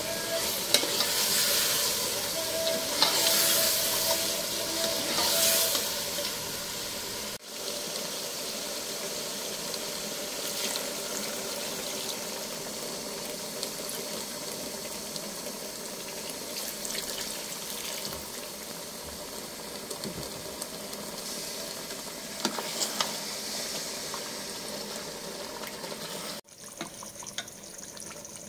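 Eggplant and potato pieces sizzling as they fry in spiced masala in an aluminium pot. A metal spoon stirs, with sharp clinks against the pot in the first several seconds. The sizzle breaks off abruptly about seven seconds in and again near the end, where it turns quieter.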